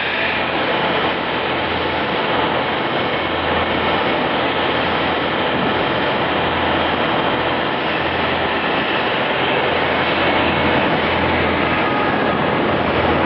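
CNC machine running steadily, a continuous loud mechanical noise with a few faint steady tones and a low hum.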